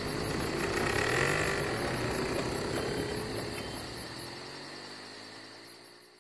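A car engine running as the car pulls away, its pitch wavering, fading steadily over the last few seconds.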